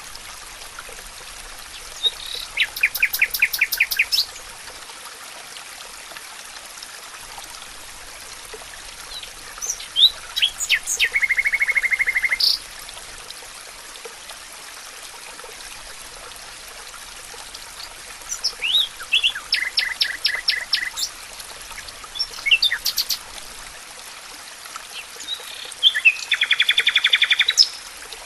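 A songbird singing four phrases, each a quick run of rapidly repeated notes ending in a fast trill, spaced roughly eight seconds apart. Under the song runs a steady hiss of running water.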